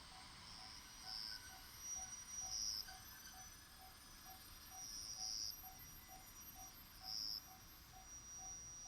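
A Japanese railway level-crossing warning bell ringing faintly and evenly, about twice a second, which means a train is approaching. Night insects are singing over it in shrill high bursts that come and go.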